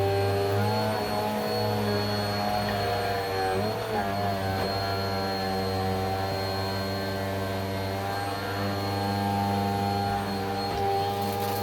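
Vacuum cleaner motor running steadily with a droning whine; the pitch dips and wobbles briefly about four seconds in, then settles again.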